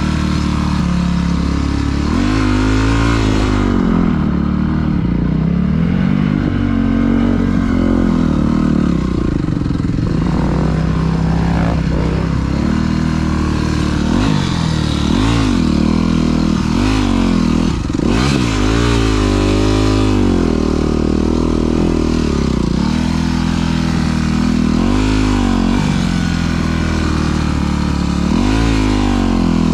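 Dirt bike engine being ridden, revving up and falling back again and again, its pitch rising and dropping every few seconds with the throttle.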